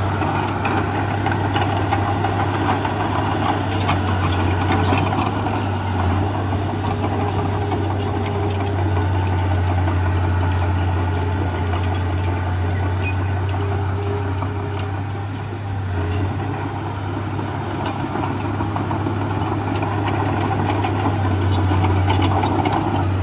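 Heavy diesel engine of earthmoving machinery running steadily with a deep hum, easing briefly a little past halfway and building again near the end.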